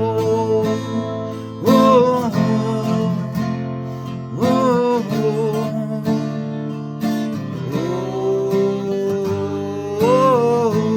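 Acoustic guitar strummed in a slow song's instrumental break, with a melody line that slides up into a held note every two to three seconds.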